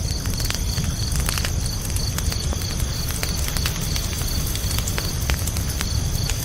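Campfire crackling with scattered sharp pops over a low rumble from the burning logs, while crickets chirp in a fast, even rhythm.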